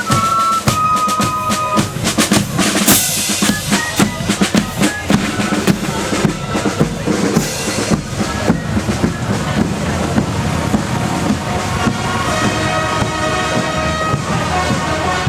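Marching band drums playing a march: snare and bass drum strokes, with a high piping melody in the first two seconds and held tones coming back near the end.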